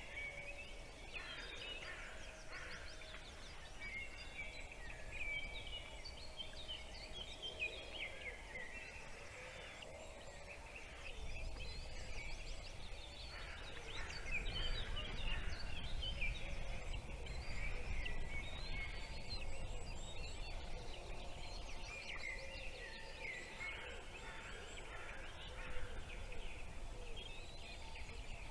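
Small birds chirping: many short, high, overlapping calls throughout, with a low rumble joining about a third of the way in.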